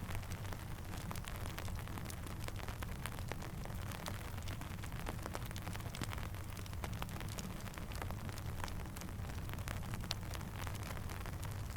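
Steady rain falling, with many sharp irregular crackles and pops from a campfire over a low steady rumble.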